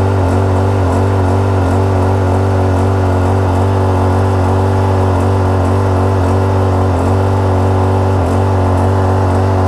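Rainman watermaker's motor and high-pressure pump running steadily under load, making fresh water from brackish water, with a loud, even low hum.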